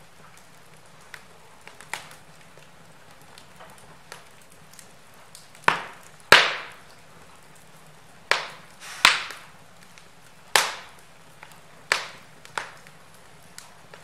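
Wood fire crackling in a fireplace: a faint steady hiss broken by sharp pops of burning logs, a few small ticks early on, then louder snaps every second or so in the second half, the loudest about six seconds in.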